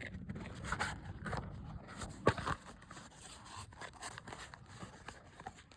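Faint scattered clicks and rustling of small objects being handled, with one sharper click about two seconds in.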